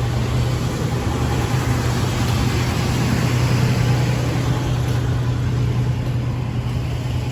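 Car engine idling steadily, a strong even low hum.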